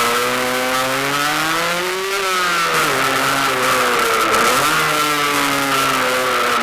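Rieju RS2 Matrix Pro motorcycle engine heard on board while riding: the revs climb to a peak about two seconds in, drop back, dip again past the middle, then pick up and hold, with a steady high whine underneath.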